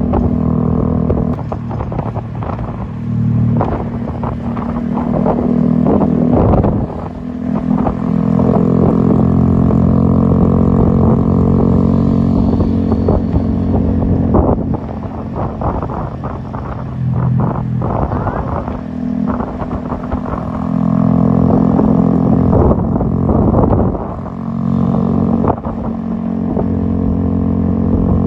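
A 36-note Arduino-controlled 'telolet' bus air-horn set playing a melody of long, held horn chords that change every few seconds, with short breaks about seven seconds in and again near the end.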